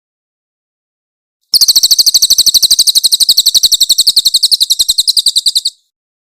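Cililin (crested jay) calling: a fast series of loud, high-pitched notes at about a dozen a second. It starts about a second and a half in, lasts about four seconds and cuts off suddenly.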